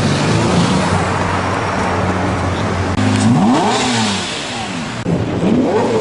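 Supercar engine running in street traffic, then revving: its pitch rises sharply about three seconds in and falls away, then climbs again near the end.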